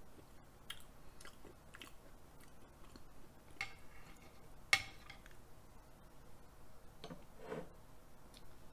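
Quiet, close-miked chewing of soft raw food, with small mouth clicks throughout and one sharp click about halfway through.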